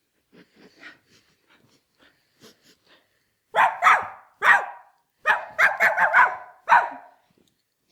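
Dog-like barking: after a few faint soft sounds, a run of about eight loud, short barks comes in two quick bursts, beginning a little over three seconds in and stopping about a second before the end.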